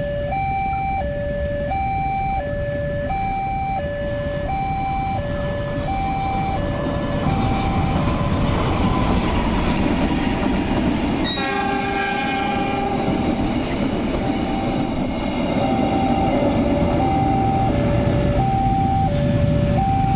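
Indonesian level-crossing warning alarm sounding its alternating two-note tone, while a train approaches and passes with a growing rumble of wheels on rails. About 11 seconds in, the train's horn sounds once for about a second and a half.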